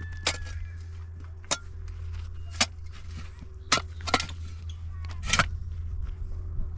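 A series of sharp, separate knocks of hard tools striking, about one every second and irregular, over a steady low hum.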